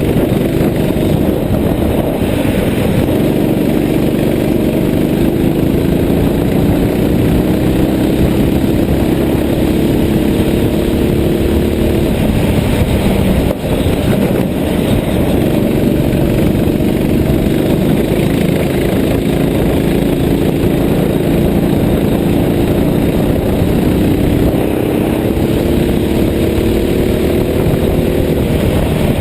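Small single-cylinder kart engine running hard, its pitch climbing slowly through two long pulls: one from about three to twelve seconds in, the other near the end.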